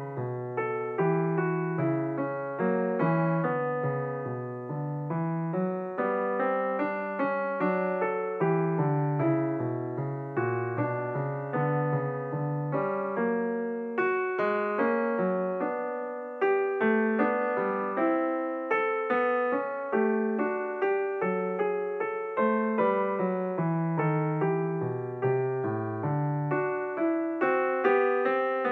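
Background piano music: a steady run of notes, each fading after it is struck, over a moving bass line.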